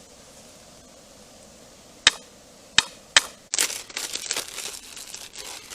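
A few sharp clicks, then a couple of seconds of dense crinkling as packaging is handled and opened.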